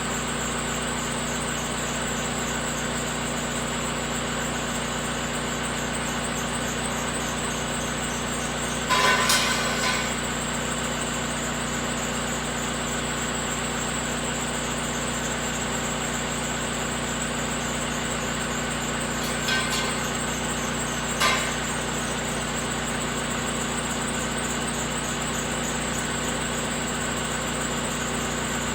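A steady machine drone, like something running at idle, with three brief sharp sounds over it: a longer one about nine seconds in and two shorter ones later.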